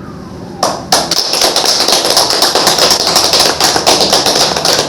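An audience applauding, a dense patter of many hands clapping that starts about half a second in.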